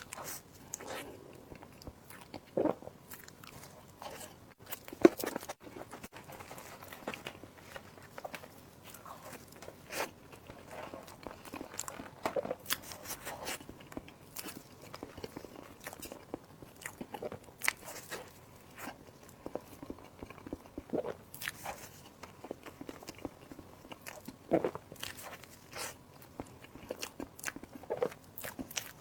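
A person eating: crunchy bites and chewing, with sharp crunches every second or two over softer chewing.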